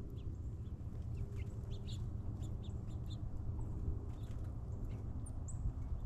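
Small birds at feeders giving short chirps and chip calls, many in quick succession, over a steady low hum.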